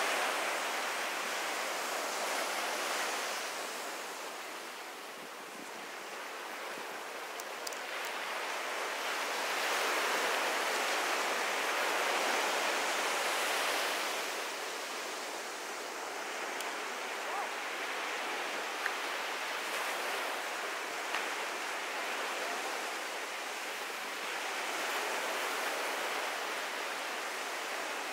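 Ocean surf breaking and washing up a beach, a steady rush that swells and fades every several seconds.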